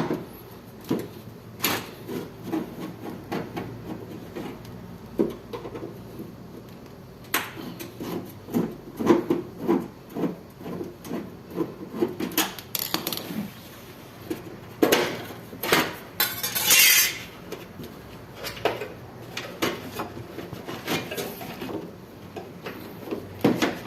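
Irregular metallic clicks, knocks and rubbing of hand tools and parts while a window air conditioner's fan motor is being unscrewed and its wire freed, with one short scrape partway through.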